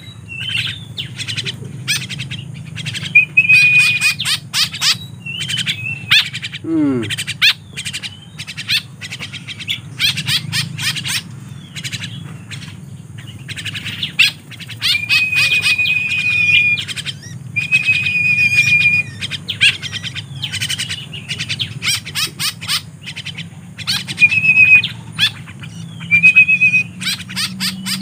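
Several tame young birds calling close by, long-tailed shrikes and Javan mynas among them: rapid sharp chirps, broken by a few wavering trills that are each held for about a second.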